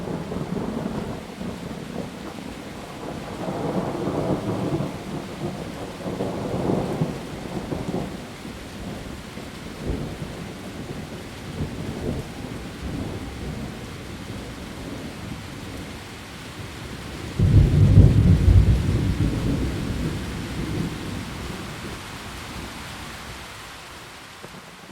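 Heavy rain falling on leaves as a steady hiss, with rolling thunder: low rumbles over the first several seconds, then a sudden loud clap of thunder about two-thirds of the way through that rumbles away over several seconds.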